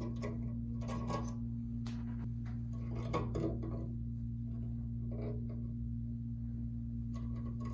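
Small clicks and scrapes of plastic and copper as a wire nut is twisted off a fan's electrical wires, over a steady low hum.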